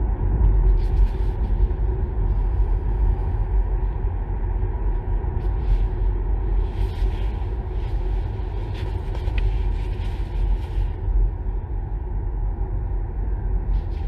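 Low road and tyre rumble inside the cabin of a Kia Niro EV with no engine note, while the car slows under regenerative braking, with a few brief hisses in the middle.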